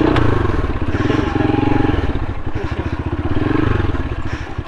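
Motorcycle engine running at low revs, the revs rising and falling gently a few times.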